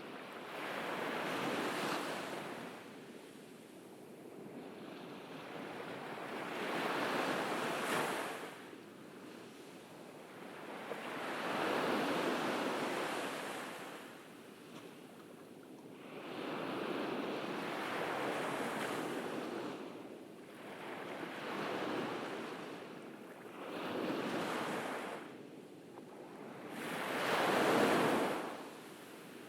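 Ocean waves breaking on a beach, each wash swelling and fading every few seconds in a slow, steady rhythm.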